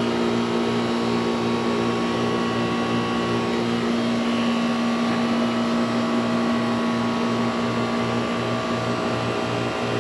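A motor running steadily with a constant hum, over a low throb that repeats evenly about twice a second.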